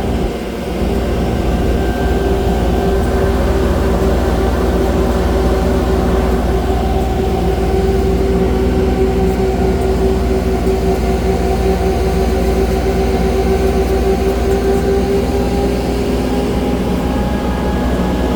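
Ride on a park shuttle tram: the steady low rumble of the running vehicle and its road noise, with a steady droning whine that fades away about sixteen seconds in.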